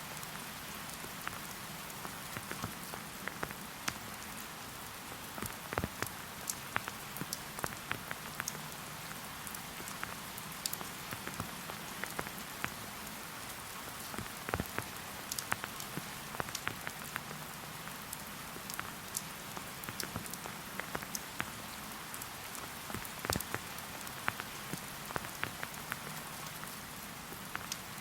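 Steady rain falling in a forest, an even hiss with frequent sharp, irregular ticks of single drops striking close by.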